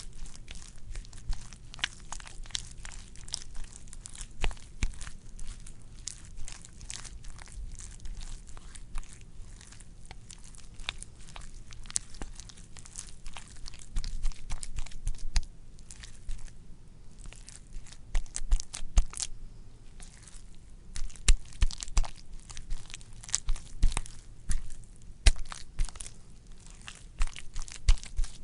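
Wet, squishy squelching: a dense, irregular run of small sticky clicks and crackles, with louder sharp squishes coming thicker in the last third.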